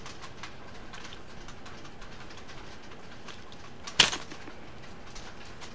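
Folded paper being handled with faint crinkles and ticks, then one sharp snap about four seconds in as the nose tip of the paper airplane is bitten off.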